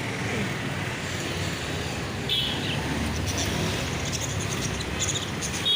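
Caged birds giving short high chirps, once about two seconds in and again at the end, over a steady rumble of road traffic.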